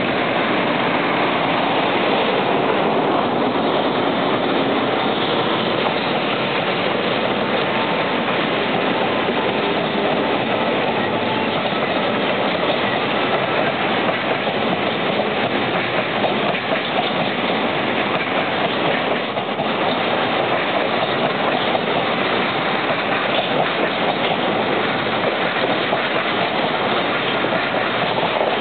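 Long JR Freight container train passing at a steady pace, its wagons' wheels running over the rails in a continuous loud rolling rattle.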